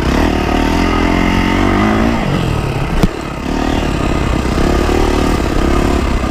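Yamaha YZ450F single-cylinder four-stroke dirt bike engine under throttle, its pitch climbing for about two seconds, then falling sharply as the revs drop before it settles to a steady note. A single sharp knock about three seconds in.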